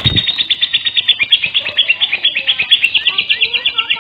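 Lovebird singing a fast, nonstop chattering trill of high chirps, about eight to ten a second: the 'gacor' chatter used as a lure call to set other lovebirds singing. A brief low thump comes right at the start.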